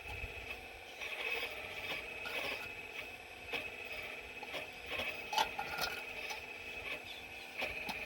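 4200XL excavator working, with a steady high whine throughout and scattered scraping and clicking as it digs among rocks; the sharpest clicks come about three and a half, five and a half, and near eight seconds in.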